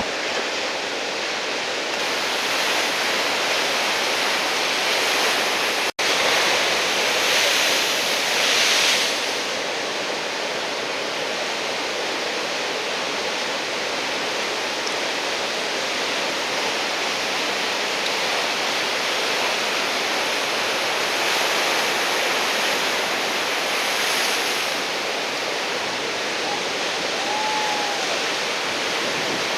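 Large typhoon-swell surf breaking and washing in as a continuous rush of white water, swelling louder for a couple of seconds about seven seconds in and again briefly near the middle-late part, with a momentary cut-out about six seconds in.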